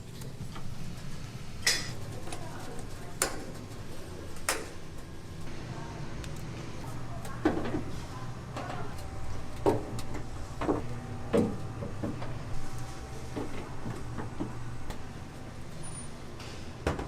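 Kitchen work sounds: a steady low hum with about a dozen scattered sharp knocks and clatters of utensils and cookware.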